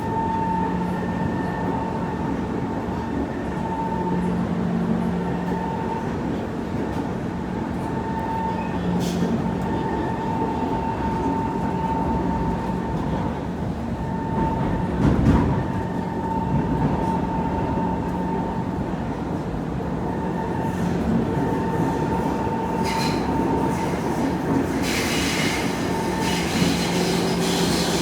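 Kawasaki C151 electric multiple unit running on the rails: a steady mid-pitched whine and low hum over wheel-on-rail rumble, with a single knock about halfway through. A high hissing squeal of the wheels comes in near the end.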